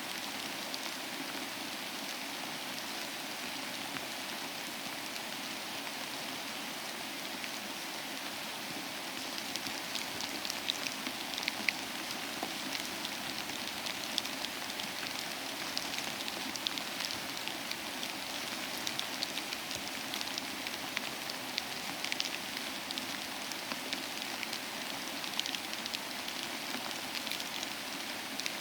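Steady rain falling, an even hiss with scattered individual drops clicking sharply, the drops a little more frequent from about a third of the way in.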